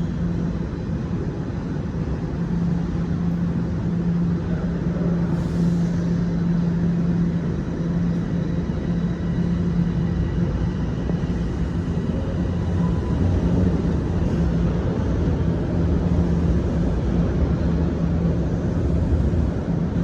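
TTC Line 1 subway train running in the station: a steady low hum over a rumble, with a faint high whine in the middle, growing slightly louder in the second half.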